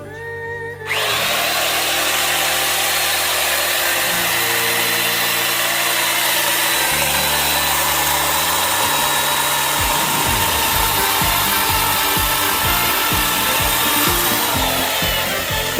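A power saw cutting firewood, a steady harsh buzz that starts about a second in and eases off near the end. Song music plays underneath, with a steady beat coming in about two-thirds of the way through.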